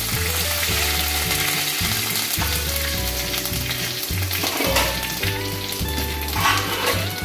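Curry leaves and mustard seeds sizzling and frying in hot coconut oil in an iron pan, a steady hiss. Background music with held notes and a bass line plays underneath.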